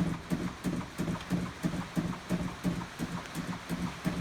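Starter cranking the 1959 Ford Fairlane's 223 cubic inch Mileage Maker straight-six, in an even rhythm of about three compression pulses a second, without catching yet. It is a cold start after about eight months in storage, with the choke pulled and the gas pumped.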